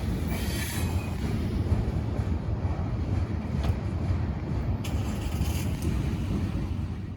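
Freight train cars rolling by on the rails: a steady rumble of wheels, with high wheel squeal fading out in the first second and a few brief faint squeals later.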